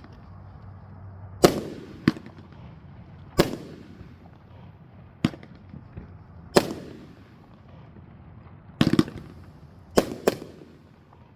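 A 21-shot 500-gram Nuclear Bomb firework cake firing. Sharp bangs come one to two seconds apart, each fading off in an echo. About nine seconds in there is a quick rattle of cracks, then two bangs close together.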